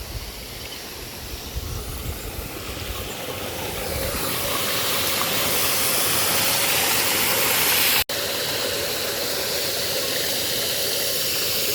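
Water rushing steadily, growing louder about four seconds in, with a momentary dropout about eight seconds in.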